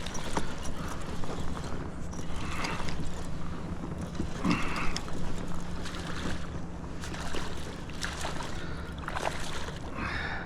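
Water against a kayak with wind on the microphone, and scattered clicks and knocks of tackle and handling while a hooked smallmouth bass is reeled in and landed.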